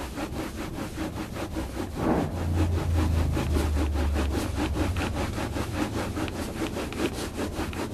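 Cloth rubbing hard over the textured RV siding in quick back-and-forth strokes, several a second, buffing off hazed paste wax. A low rumble sits underneath from about two seconds in to about four and a half.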